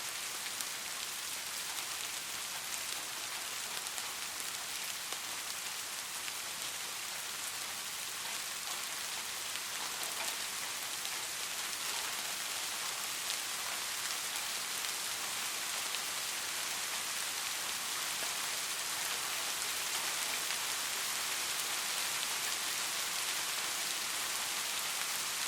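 Steady rain falling on a street, an even hiss with fine pattering drop ticks.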